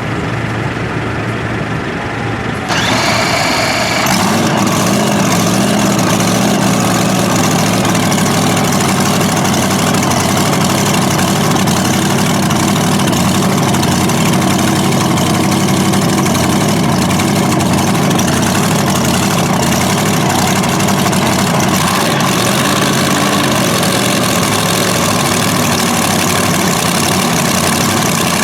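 A four-engine modified pulling tractor being started and running at idle. The sound jumps up suddenly about three seconds in, builds again a second later into a steady, heavy engine note, and its tone shifts about three-quarters of the way through.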